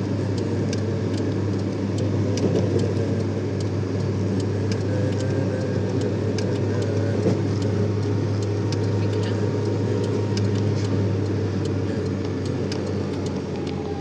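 A car being driven at a steady pace: an even engine and road-noise drone with many small scattered clicks.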